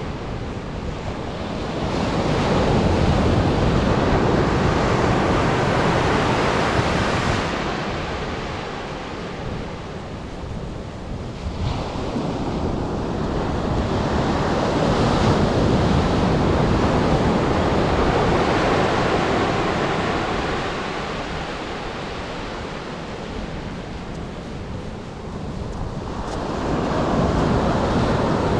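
Atlantic surf breaking on a sandy beach: a continuous wash of noise that swells and ebbs in slow surges, loudest about 2 to 7 seconds in and again around 14 to 20 seconds, and rising once more near the end.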